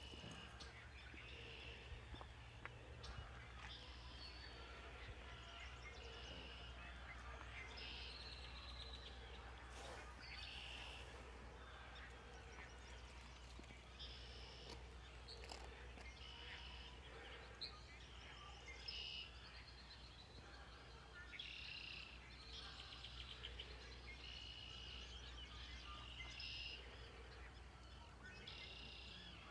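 Faint chirps and short trilled calls of birds, many brief phrases throughout, over a low steady background rumble.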